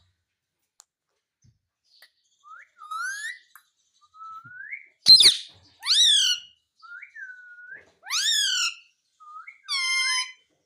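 Ringneck parrot whistling and calling: a run of short rising whistles mixed with louder, fuller calls, starting about two seconds in.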